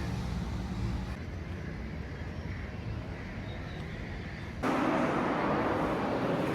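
Street traffic noise with a low engine rumble; about two-thirds of the way in it switches suddenly to a louder, even rushing noise.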